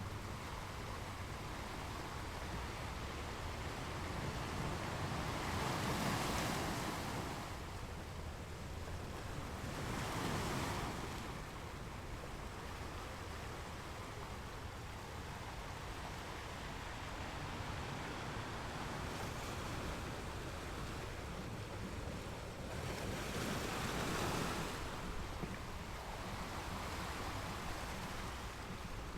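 Ocean waves washing onto a beach, with three louder breaks about six, ten and twenty-four seconds in, over a steady low rumble.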